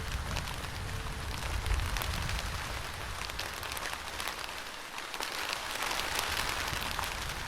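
Steady rain falling, with many separate drops ticking on a surface. A low rumble under the rain fades out about four seconds in.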